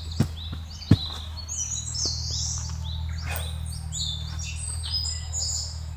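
Small forest birds chirping over and over in short, quick falling notes, over a steady low hum. Two sharp knocks come in the first second, the loudest sounds here.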